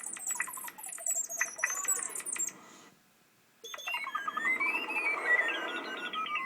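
Synthesized bird-chirp notes from a software MIDI synth, played as EEG brainwave readings drive the pitches. They come in quick stepped runs of high notes, stop for about a second midway, then return as a run sweeping up and down in pitch over a soft hiss.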